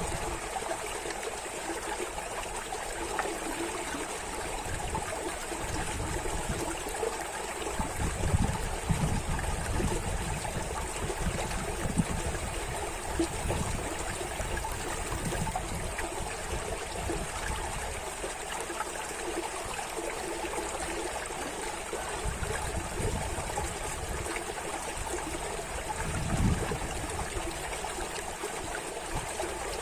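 Stream of water running and trickling steadily, with a few irregular low surges, the strongest about eight and twenty-six seconds in.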